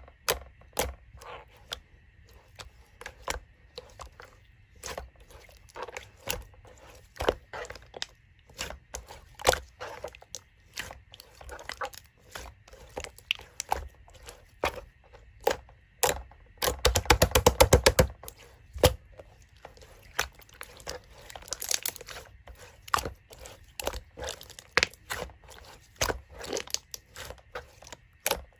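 Slime being pressed, stretched and poked by hand, giving irregular sharp pops and clicks, with a quick rattling run of clicks about two-thirds of the way through.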